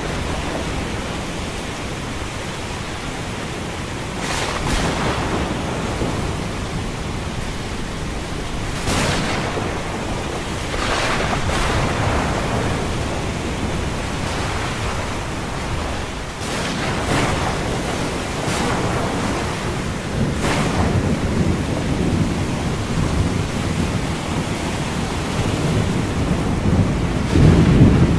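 Thunderstorm with rain over ocean surf: a steady wash of rain and waves, with a surge of noise every few seconds as waves break, and a louder low rumble of thunder near the end.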